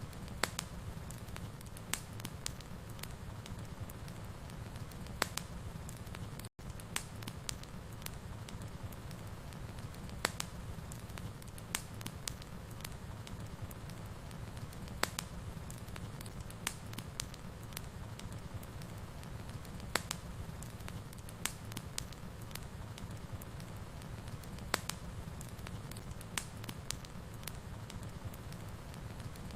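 Wood fire burning in a fireplace, a steady low rumble of flames with irregular sharp crackles and pops. The sound cuts out for an instant about six and a half seconds in.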